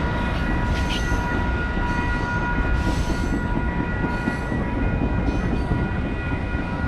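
Passenger train passing close by: a steady rumble of wheels on the rails, with a faint steady high whine over it.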